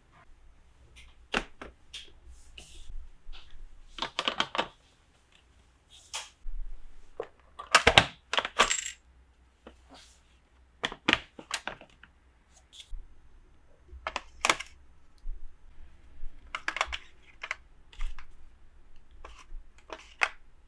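Plastic toy pieces and packaging handled during an unboxing: irregular small clicks and taps, with a louder cluster of clatter about eight seconds in.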